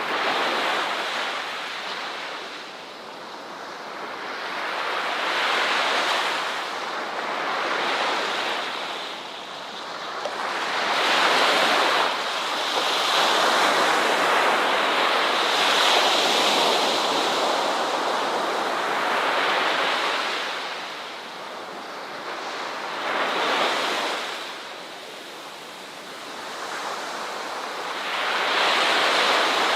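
Ocean waves breaking on a shore, the surf swelling and ebbing every few seconds with a long sustained wash in the middle.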